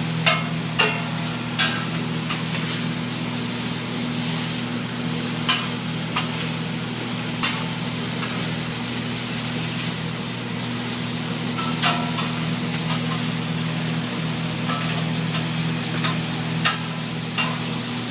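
Meat frying with a steady sizzle, over a constant low hum, while a metal utensil strikes the cooking surface with sharp clinks every few seconds, in small clusters near the start, in the middle and near the end.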